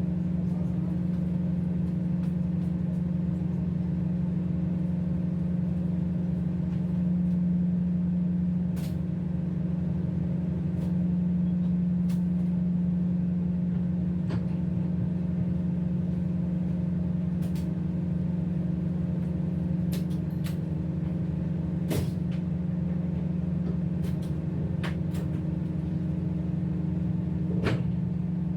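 Tugboat's diesel engines running with a steady drone, with a few brief sharp clicks over it.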